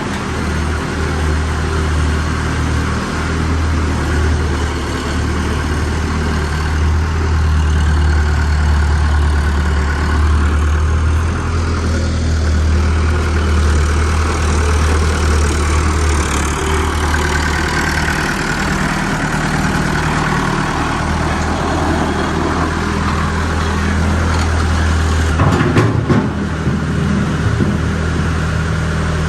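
Tucker Sno-Cat's engine running steadily at idle, a deep, even hum, with a brief cluster of knocks or clanks near the end.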